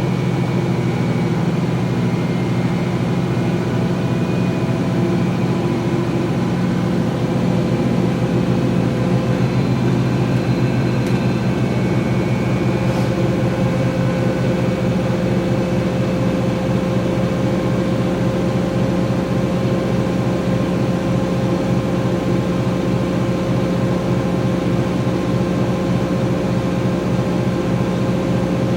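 2006 GE Profile Harmony top-loading washer spinning in its spin-drain stage: a steady motor hum and whine, with a rhythmic pulsing that grows clearer partway through as the drum picks up speed. The machine is shaking a good amount.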